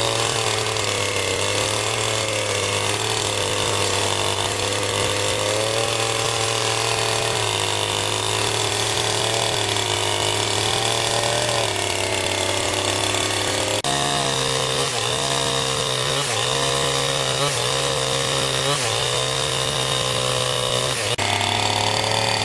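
Chainsaw running steadily, its engine pitch dipping and rising as it works, with abrupt breaks in the sound about two-thirds of the way through and near the end.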